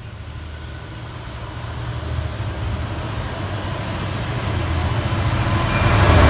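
Train approaching, its rumble growing steadily louder and loudest near the end.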